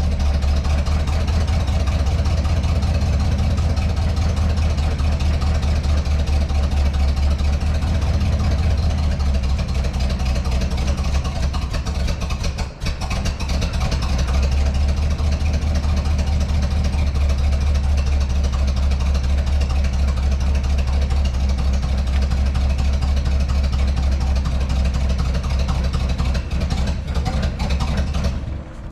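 A large engine idling steadily, with a momentary dropout about thirteen seconds in.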